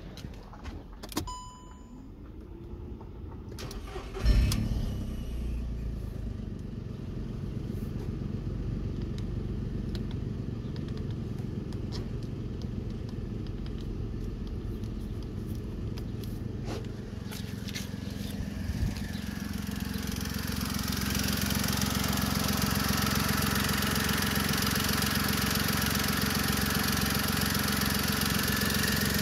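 A short beep, then the VW Polo's 1.2-litre CGPB three-cylinder petrol engine starts about four seconds in and settles into a steady idle at about 1000 rpm. About two-thirds of the way through, the engine is heard louder and brighter, from the open engine bay.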